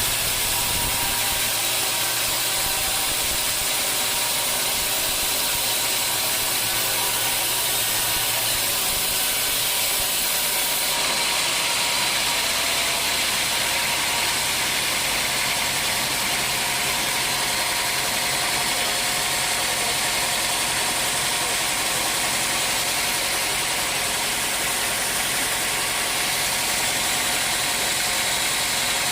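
Sawmill machinery running steadily while sawing dry teak, a constant hiss over a low engine hum.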